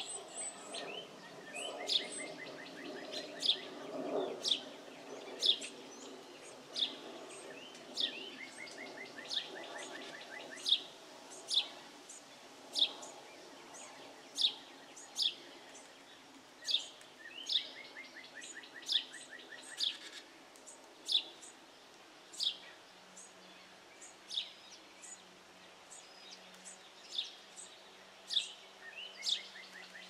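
Wild birds calling: a short high chirp repeated roughly once a second, and a quick buzzy trill that comes four times, each lasting a second or two.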